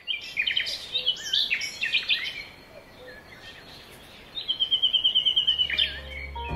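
Songbirds singing: a quick run of varied whistled chirps that glide up and down, then near the end a fast even trill of about ten notes a second lasting a second and a half. Soft music fades in under the last second.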